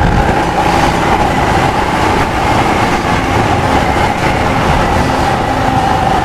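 Royal Enfield Himalayan motorcycle under way: steady engine and road noise with wind rushing over the microphone.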